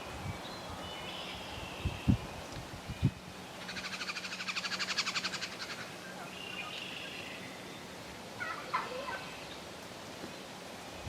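Wild turkey gobbling: one rapid rattling call of about two seconds near the middle, with smaller birds chirping around it and a couple of low thumps early on.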